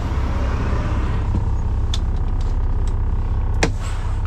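Semi truck's diesel engine idling with a steady low rumble, with two sharp clicks about two seconds and three and a half seconds in.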